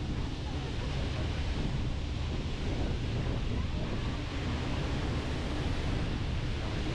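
Steady wind noise on the microphone over the wash of water and surf.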